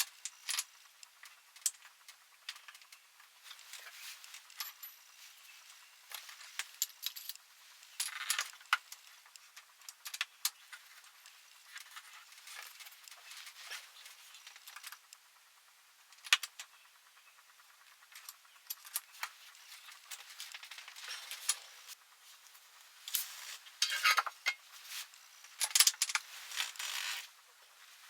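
Metal hand tools and small metal parts clinking and rattling in intermittent bursts during work on a scooter, with a busier stretch of clattering near the end.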